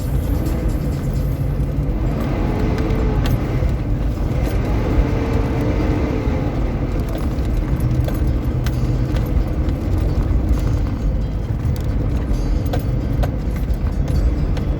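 Car driving, heard as a steady low rumble of engine, tyres and wind, with scattered light clicks and rattles that come more often in the second half.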